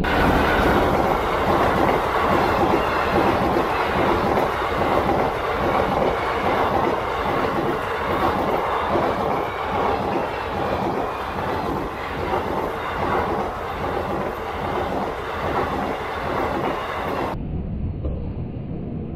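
WAP-4 electric locomotive and its passenger coaches passing close at speed: a loud rush with a steady rhythmic clickety-clack of coach wheels over the rail joints. Near the end the sound suddenly turns duller.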